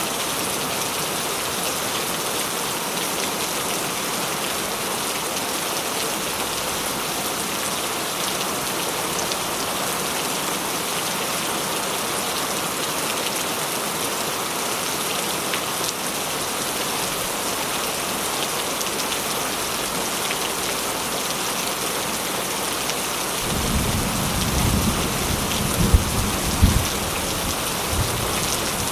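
Steady rain. Near the end, a low rumble of thunder rolls in, with two sharper claps a little apart.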